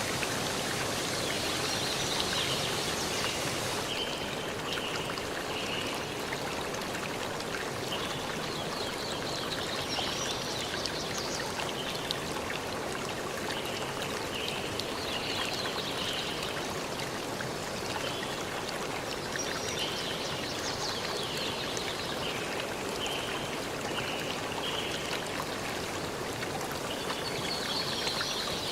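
Steady rush of a forest stream, with short high chirps in runs heard over it now and then.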